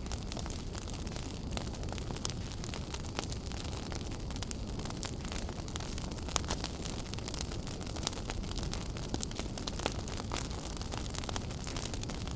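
Wood fire burning in a fireplace: a steady low rush of flame with many quick, sharp crackles and pops scattered through it.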